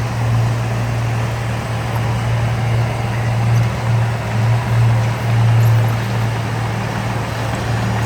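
Heavy diesel engine of earthmoving equipment running steadily with a strong low drone, its loudness swelling and dipping a little.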